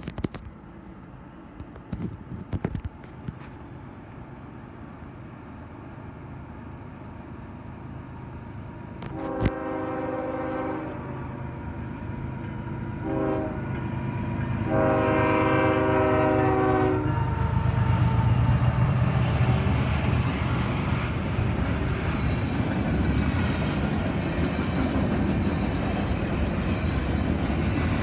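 Freight train's locomotive horn sounding three blasts, long, short, long, over a growing rumble. The train then arrives and passes loudly, its wheels clacking over the rail joints.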